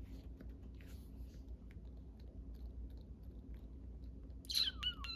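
Faint taps and rustles of rubber stamps and ink pads being handled on a work table, over a steady low hum. Near the end, a sudden high squeal falls in pitch and then goes on as a quick run of pulses.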